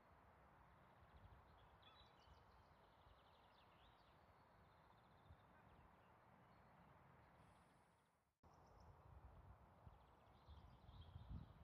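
Near silence with faint small birds chirping and trilling in the distance, a brief dropout about eight seconds in, and an irregular low rumble on the microphone near the end.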